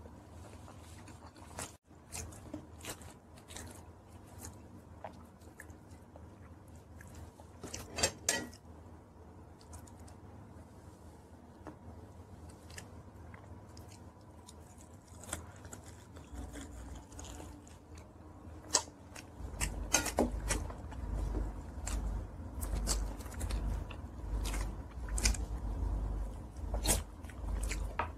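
Close-up chewing and biting of chicken wings, with crunches and wet mouth clicks. The eating gets louder and busier about two-thirds of the way through, with a low rumble underneath.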